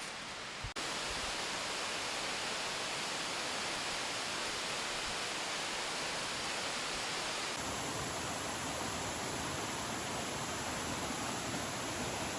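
Steady rush of a waterfall, an even hiss of falling water. The sound changes abruptly about a second in and again about halfway through.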